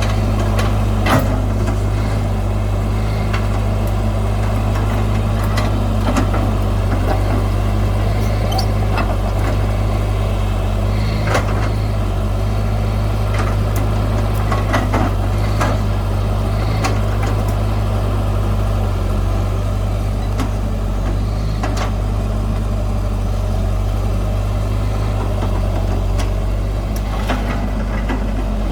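Heavy diesel earth-moving machinery running steadily with a constant low engine drone, broken by scattered sharp metallic clanks and knocks.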